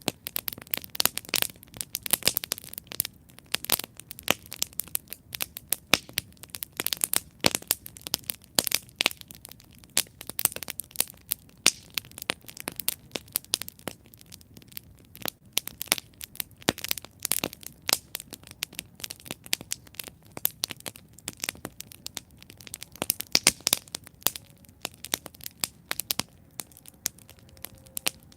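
Campfire burning with dense, irregular crackling and sharp pops from the burning wood.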